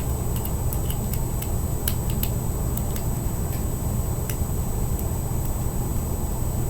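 Small, sharp, irregular clicks of a fingerboard skate tool working the tiny truck screws and nuts, over a steady low hum in the background.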